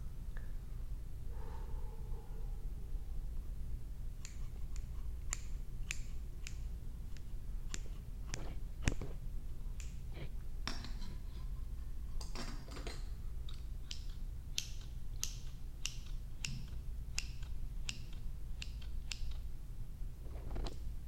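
Scissors snipping close to the microphone: an irregular run of short, sharp clicks that thickens after the first few seconds, over a steady low hum.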